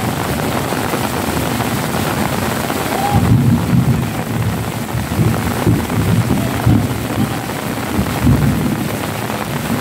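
Heavy rain falling steadily, with low rumbling swells through the middle of the stretch.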